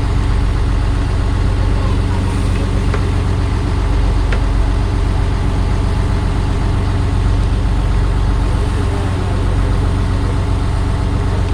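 A steady, low engine drone running evenly, with a constant hum.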